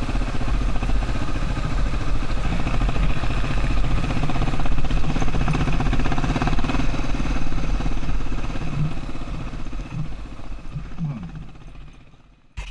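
Yamaha Serow XT225's single-cylinder four-stroke engine running as the motorcycle is ridden, heard from an onboard camera. The sound fades out over the last few seconds, with one short burst near the end.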